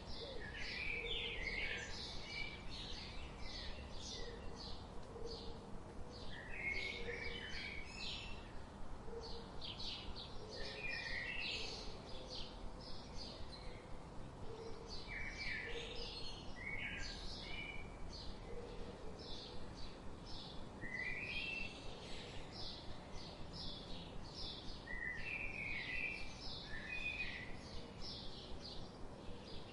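Forest ambience of several birds calling: a continuous run of short, high chirps repeating a few times a second, mixed with clusters of lower, falling notes over a steady background hiss.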